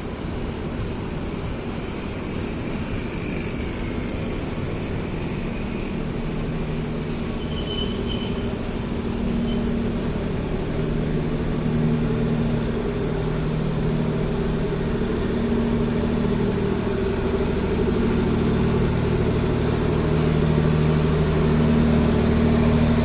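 Diesel locomotive engine running with a deep, steady hum that sets in about six seconds in over a low rumble, growing slowly louder.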